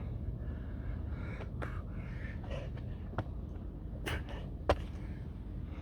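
Wind rumbling on the microphone, with a few sharp clicks and knocks about three to five seconds in from a person going through a burpee: dropping to the ground, doing a push-up and jumping back up.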